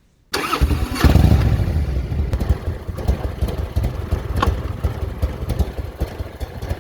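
Motorcycle engine running with a deep rumble that starts suddenly about a third of a second in and surges loudest around a second in, with a few sharp clicks over it.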